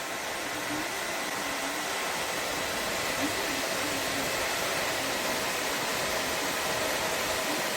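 Battery-powered 90 mm cooling fan for fan-cooled work clothes running, a steady rush of air with a faint whine, growing a little louder over the first couple of seconds.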